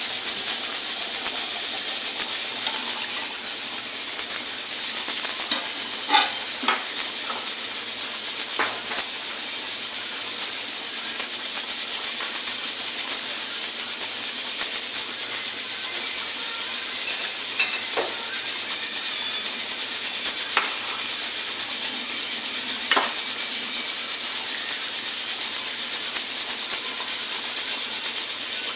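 Food frying in hot oil in a pan: a steady sizzling hiss with a handful of sharp pops from the oil.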